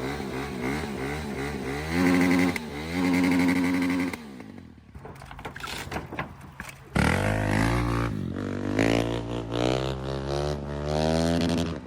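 Car engine running and revving, its pitch wavering, dropping quieter for a few seconds midway, then climbing steadily over the last few seconds.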